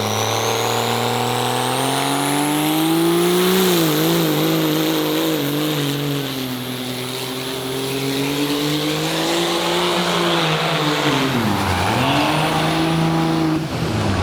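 Turbocharged engine of a pulling vehicle at full throttle during a sled pull: the revs climb over the first few seconds with a rising turbo whistle, hold with a wavering pitch, sag briefly near the end, then recover before the engine backs off.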